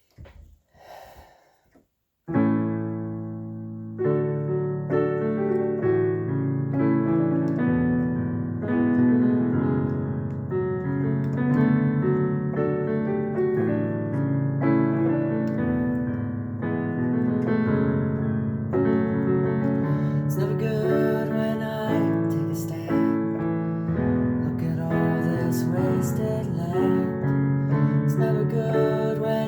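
Keyboard playing sustained chords and a slow melody, starting about two seconds in as the song's instrumental opening.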